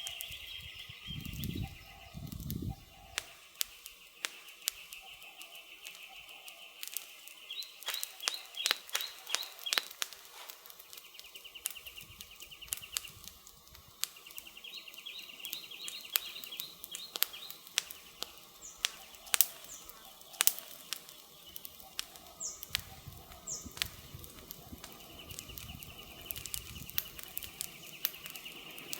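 Campfire crackling: burning firewood gives irregular sharp pops and snaps throughout. A high, fast trill from the surrounding woods comes and goes, and two low hoots or coos are heard in the first few seconds.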